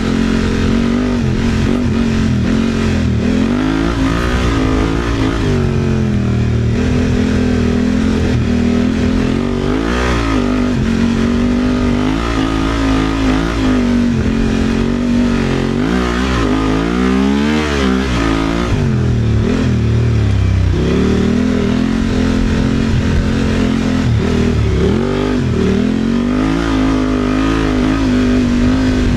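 Honda off-road motorcycle engine running under changing throttle, its pitch holding steady at times and repeatedly rising and falling as it revs up and eases off.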